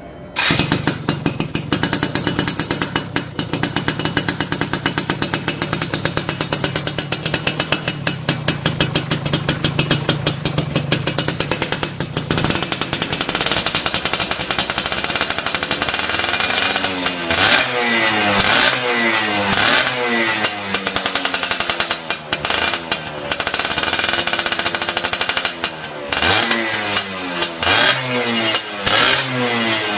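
Yamaha F1ZR two-stroke motorcycle engine running through a modified aftermarket or bored-out exhaust, with a crisp note. It idles steadily at first, then from about 13 seconds in the throttle is blipped over and over, the pitch rising and falling with each rev.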